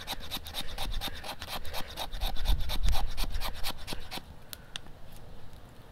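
A knife blade scraping a stick of fatwood in quick, even strokes, several a second, to raise shavings for fire-lighting; the scraping stops about four seconds in, leaving a few light clicks.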